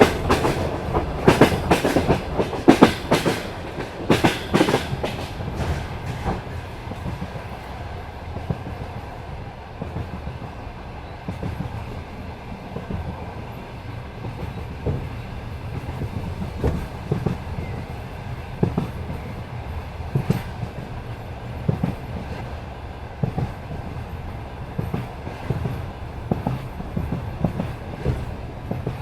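Passenger train carriage wheels clattering over rail joints at speed: a quick run of loud clacks in the first six seconds, then a steady low rumble broken by occasional clacks.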